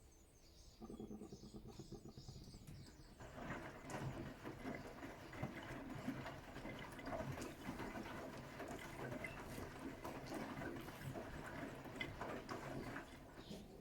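Bosch Serie 6 WAT286V0 washing machine during a 90 °C boil wash: a faint motor hum starts about a second in, then the wash water sloshes and splashes in the turning drum for about ten seconds before stopping near the end.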